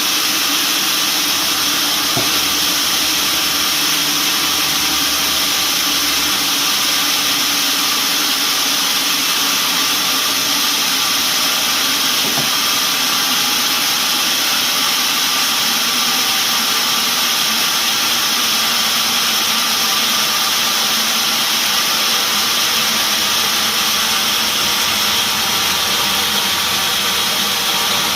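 Sawmill machinery running steadily: a continuous loud mechanical hiss and whine with no pauses or changes.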